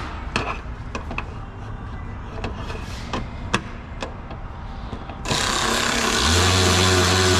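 Scattered light clicks and knocks of parts being handled, then about five seconds in a loud, steady whirring with a low hum: an electric motor running.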